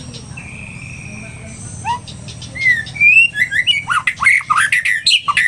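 White-rumped shama (murai batu) singing agitatedly: a held whistle early on, then from about two and a half seconds in a loud, rapid run of varied whistled notes and sharp clicks.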